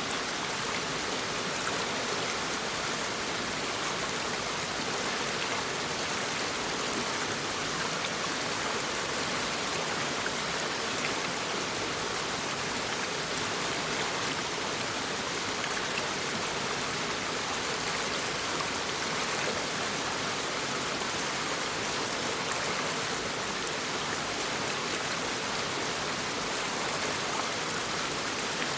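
Shallow brook babbling over stones: a steady, even rush of water with no change throughout.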